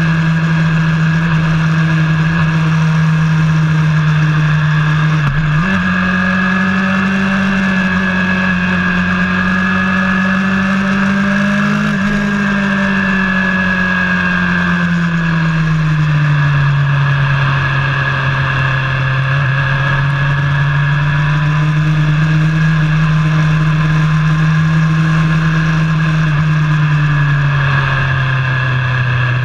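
Engine of a vehicle lapping a race track, running hard and steady throughout, its pitch slowly rising and falling with speed. About five seconds in, the pitch breaks briefly and jumps higher.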